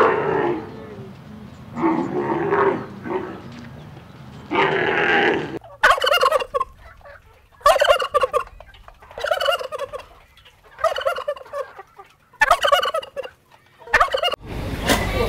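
Three drawn-out animal calls in the first five seconds or so. Then turkey toms gobbling: six rattling gobbles, roughly one every second and a half.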